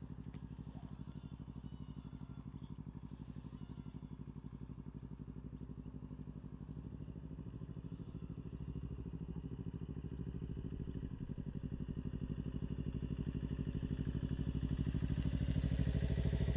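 Kawasaki Ninja 300's parallel-twin engine running at a steady low, idle-like speed with an even pulse. It grows gradually louder over the second half.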